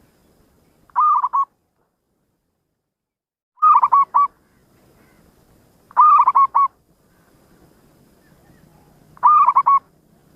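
Zebra dove (perkutut) cooing: four short phrases of three or four quick notes each, spaced a few seconds apart.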